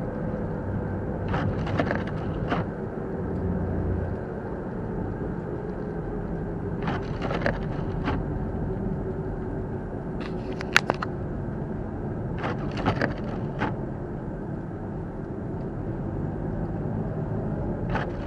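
Steady drone of a car driving on a snowy road, heard from inside the vehicle, with short clusters of sharp clicks and ticks every few seconds.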